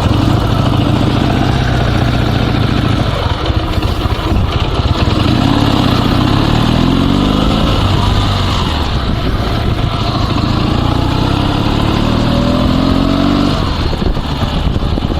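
Dnepr 16 sidecar motorcycle's 650 cc flat-twin engine pulling away under way, its revs climbing twice and falling back in between.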